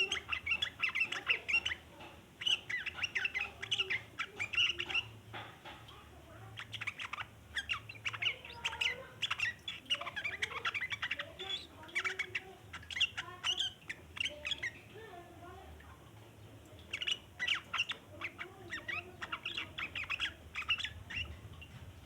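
Yellow-vented bulbul (trucukan) chattering in long runs of rapid, sharp notes, pausing briefly twice.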